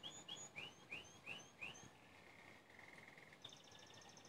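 Faint bird song: a run of about seven short chirps, each dropping in pitch, then a quick trill about halfway through and a higher buzzy trill near the end.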